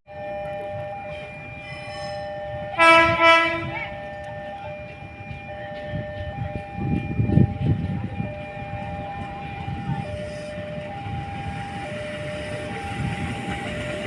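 Train horn sounding once, about a second long, about three seconds in, over a train's rumble. Steady two-pitch electronic warning tones sound alongside it throughout.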